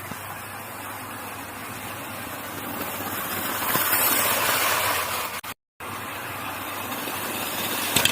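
An engine running with a steady, noisy rumble that grows louder over the first four seconds, cuts out abruptly for a moment about five and a half seconds in, then carries on and builds again.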